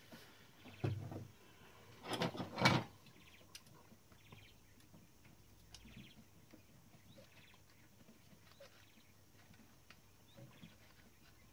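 Clicks and rattles of hand work on a small portable typewriter's mechanism, loudest in a cluster about two seconds in, then faint scattered ticks.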